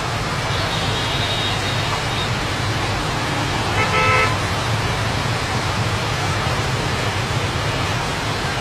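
A vehicle horn toots once, briefly, about four seconds in, over a steady rushing noise of road traffic.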